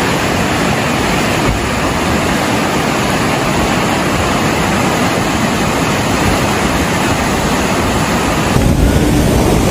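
Loud, steady rush of fast-moving floodwater with wind buffeting the microphone; the noise changes abruptly near the end.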